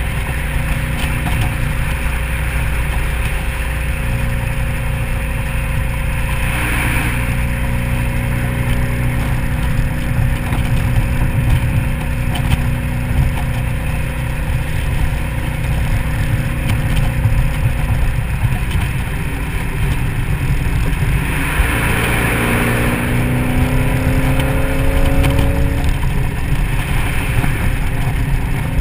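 2003 SVT Mustang Cobra's supercharged 4.6-litre V8 cruising at freeway speed with the top down, under heavy wind rumble and road noise. The engine note holds steady, then climbs in pitch about 22 seconds in as the car accelerates; two swells of rushing noise come around 7 and 22 seconds in.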